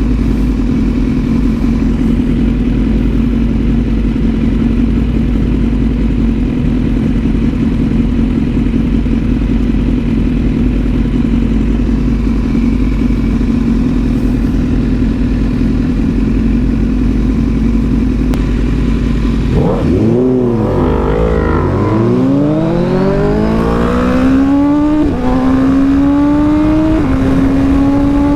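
Motorcycle engine and riding noise holding a steady cruise. About two-thirds of the way in, the revs drop sharply and then climb hard, and the bike accelerates with two quick upshifts near the end.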